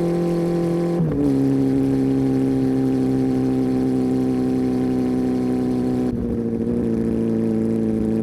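Honda CB400 Super Four's inline-four engine running through its exhaust: the revs step down about a second in and then hold at a steady, even running note, wavering briefly near the end.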